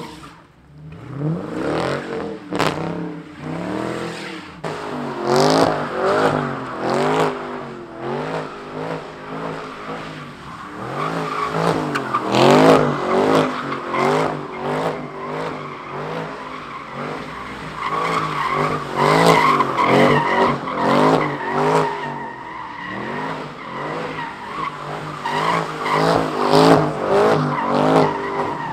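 Car engine revving up and down again and again, with tyres squealing and skidding, as in a car spinning donuts at a street sideshow. Sharp cracks come now and then.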